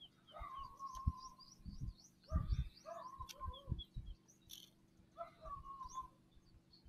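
Birds calling: a few held whistled notes, each up to about a second long, over runs of quick high chirps. A few short low knocks come in between, the loudest about two and a half seconds in.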